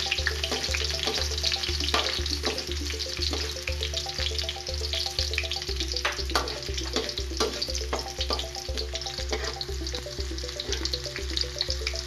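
Onion and garlic sizzling as they sauté in hot oil in a wok, with a spatula scraping and knocking against the pan now and then. Background music with a steady low beat runs underneath.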